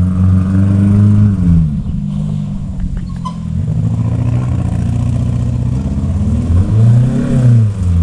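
Dodge Neon's four-cylinder engine running with its exhaust cut off, open and loud. The revs drop back to idle about a second and a half in. Near the end it gets one quick blip up and back down.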